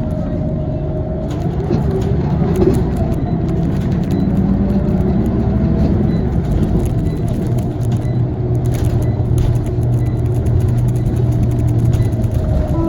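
Scania CL94UB OmniLink city bus, heard from inside the cabin while driving: engine and ZF automatic gearbox running under way with road noise. The engine note shifts around the middle, then holds steady near the end.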